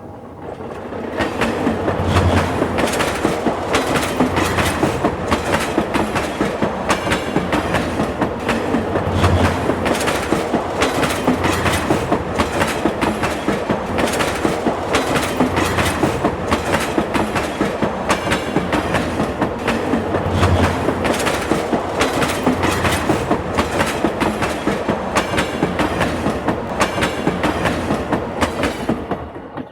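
Train wheels clattering over rail joints in a fast, steady clickety-clack, with a heavier low thud every few seconds. It builds up over the first two seconds and dies away near the end.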